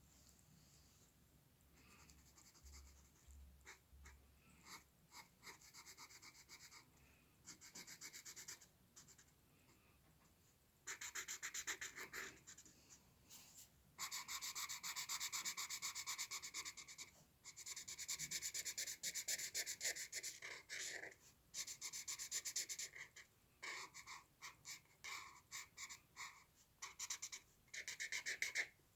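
A drawing tool scratching on paper during hand drawing: short separate strokes at first, then from about eleven seconds in long stretches of rapid back-and-forth strokes.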